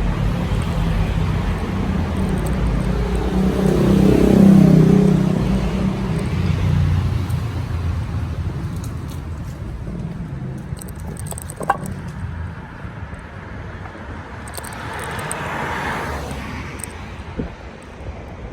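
City traffic heard from a moving bicycle: a motor vehicle's engine swells past about four seconds in, over steady road rumble and wind on the bike-mounted microphone.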